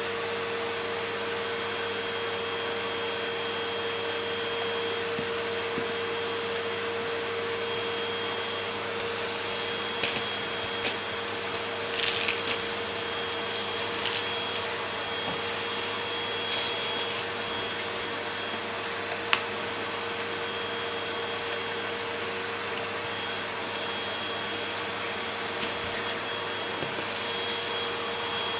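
Vacuum cleaner running steadily with a constant whine, picking up crunchy debris: scattered crackles and sharp ticks start about nine seconds in and come and go through the rest of the run.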